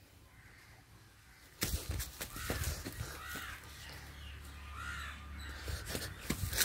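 Three or four short harsh bird calls over rustling and clicking handling noise, which starts suddenly about a second and a half in.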